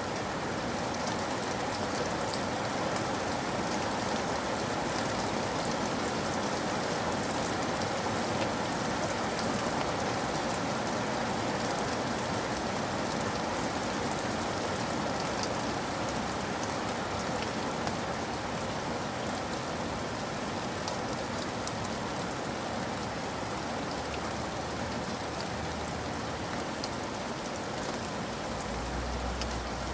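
Steady heavy rain falling on a surface, an even wash of patter with scattered individual drop ticks. A low rumble comes in near the end.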